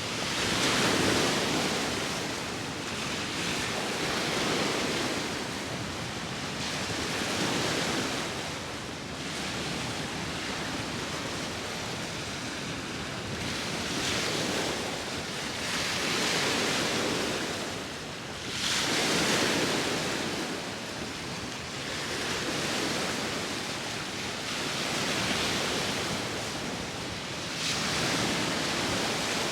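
Sea waves washing onto the shore, one surge after another every few seconds, over a steady rush of wind.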